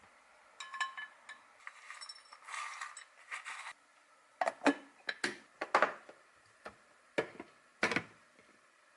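Kitchen containers and dishes being handled while groceries are put away: a few light clinks with a short ring, a brief rustle, then a run of sharp knocks and clacks as items are set down.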